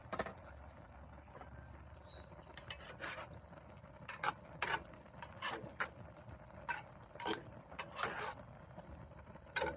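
A cooking utensil scraping and clicking against a pan while a creamy cheese sauce is stirred, in irregular strokes.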